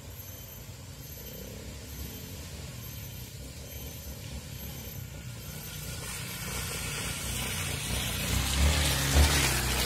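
Trail motorcycle engine running, a low rumble that grows louder from about six seconds in, with a rushing noise building alongside it near the end.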